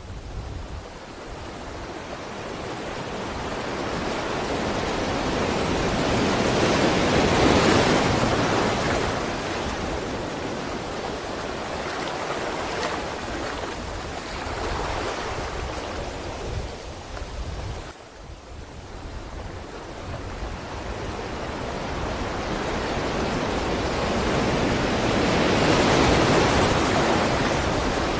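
Sea waves washing onto the shore, surging up and drawing back in slow swells, the loudest rushes coming about a quarter of the way in and again near the end.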